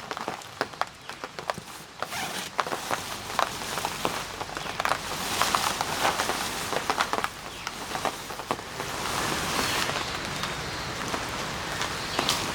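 Rain falling, with irregular drops ticking sharply; it grows heavier and steadier in the second half.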